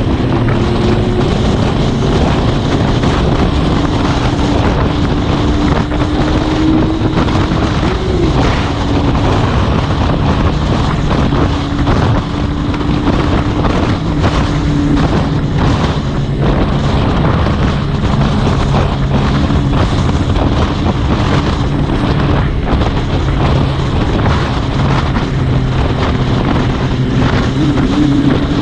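Motorcycle engine running at a steady cruise while riding, its pitch holding nearly level with small rises and dips, under heavy wind noise on the microphone.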